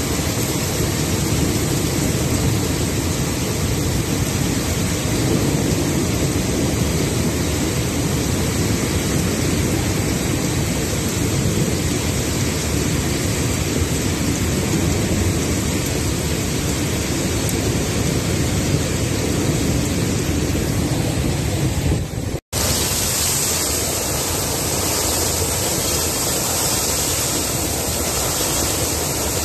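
Heavy rain pouring in a steady, loud hiss. It cuts out for an instant about 22 seconds in, then carries on with more high hiss.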